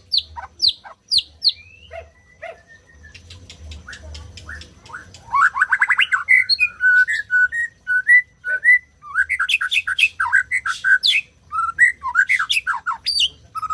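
White-rumped shama singing: a varied run of clear whistled notes and glides mixed with chattering phrases, including a fast stuttering trill about five seconds in. The song gets busier and louder in the second half.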